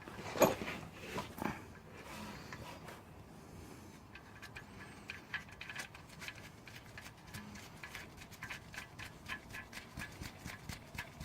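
Faint handling of a steel oil pan drain plug being threaded back in by hand: a sharper knock about half a second in, a few rubs and taps, then quick irregular small metallic ticks from about five seconds in.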